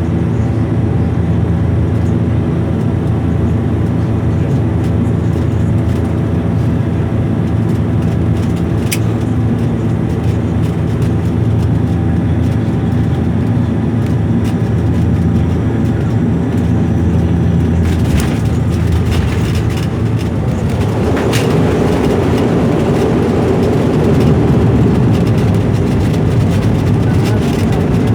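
Airliner cabin drone with steady engine tones during the approach. About two-thirds of the way through come a few sharp knocks as the landing-gear wheels touch down, followed by a louder rushing noise as the plane rolls along the runway.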